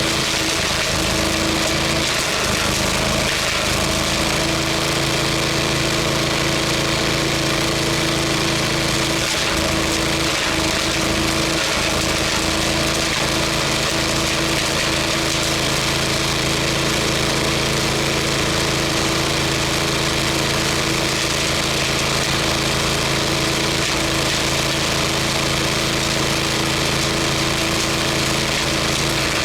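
Wood chipper's engine running steadily at a constant speed.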